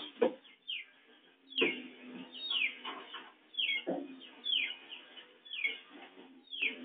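A bird chirping over and over, short falling chirps about once a second, with a couple of dull knocks in between.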